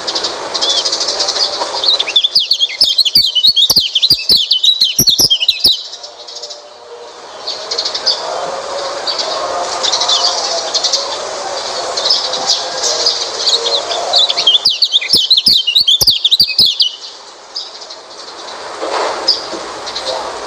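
White-eyes (pleci) singing: a steady, high, rapid twittering chorus. Twice, about two seconds in and again near fifteen seconds, it breaks into a louder, fast warbling burst lasting about three seconds. This is the kind of recorded pleci song played to coax silent birds into singing.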